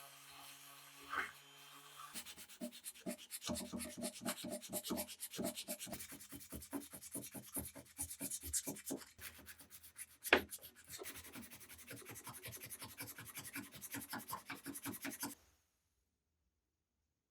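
Hand sanding in quick, rhythmic back-and-forth strokes, several a second, with a single sharp knock about two-thirds of the way through; it stops abruptly near the end.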